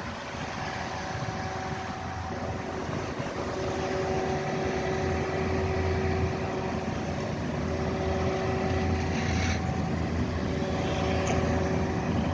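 A steady engine hum with a few held tones over a low rumble, growing gradually louder, with a short scrape about nine and a half seconds in.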